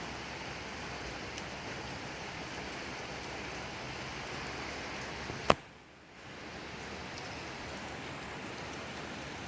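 Steady rain falling, an even hiss. About five and a half seconds in there is one sharp click, after which the rain drops away for a moment and fades back up within about a second.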